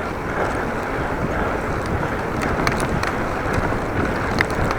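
Strong wind blowing across the microphone of a camera on a moving bicycle: a steady rush of noise, with a few faint ticks.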